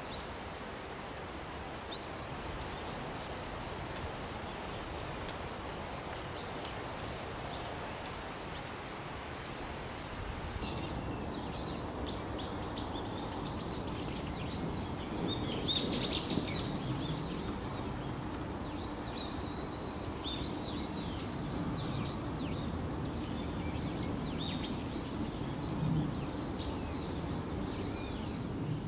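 Outdoor ambience: a steady background hiss, with birds chirping and twittering in quick rapid notes from about a third of the way in. A faint low hum sits underneath the later part.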